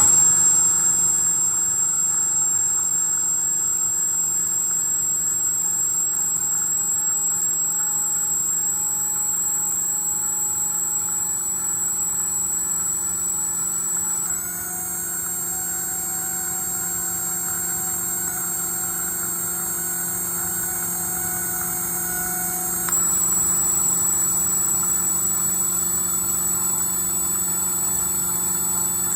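Hydraulic motor running with an abnormal noise: a steady high-pitched whine over a low hum. It drops slightly about 14 seconds in and comes back up about 23 seconds in.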